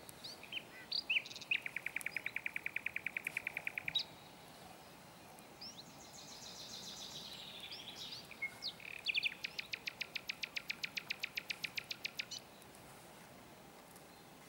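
A songbird singing: a rapid trill of repeated notes lasting a couple of seconds, then a falling twitter, then a second, longer fast trill.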